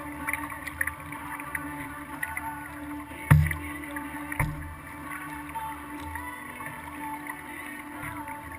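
Kayak on the water, heard from a camera mounted on the hull: water splashing and small paddle clicks, with a sharp knock against the hull a little over three seconds in and a softer one about a second later.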